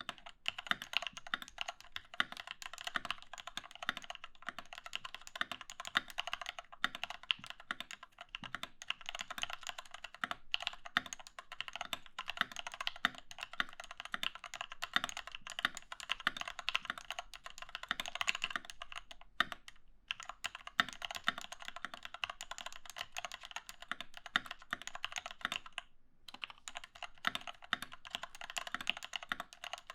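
Continuous fast typing on a Doro67 mechanical keyboard fitted with lubed Cherry MX Retooled Black linear switches and XDA keycaps: a dense stream of keystroke clacks, with short pauses about 19 and 26 seconds in.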